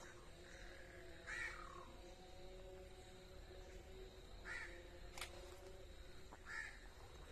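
Three short, faint bird calls, spaced a couple of seconds apart, over a low steady hum, with a single sharp click between the second and third call.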